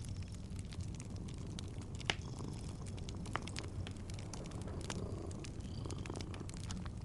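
Cat purring steadily in a low, pulsing rumble, mixed with the scattered crackles and pops of a wood fire. There is a sharper pop about two seconds in and another about three seconds in.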